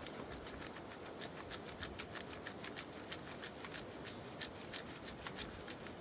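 A rapid, uneven run of short scraping or rubbing strokes, several a second.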